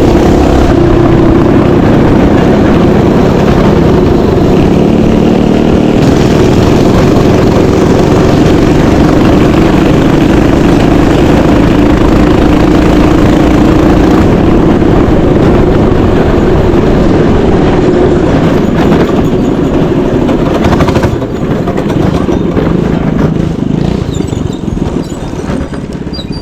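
Mini bike's small engine running steadily at high revs while riding, then getting quieter after about twenty seconds.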